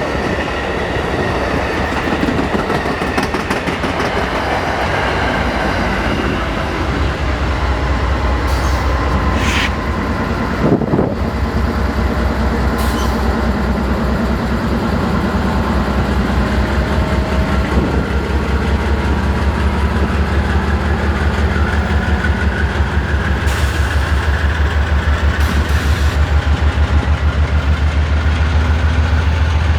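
Train rolling past with steady wheel noise and a low rumble, the wheels clacking in an even, repeating rhythm that grows more regular in the second half. A few sharp clicks come around the middle.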